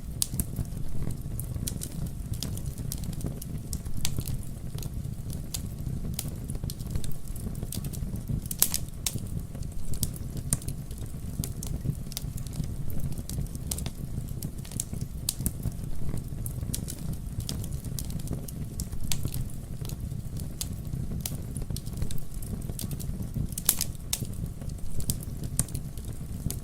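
Campfire burning with a steady low rumble and scattered sharp crackles and pops, a few louder snaps about nine seconds in and near the end.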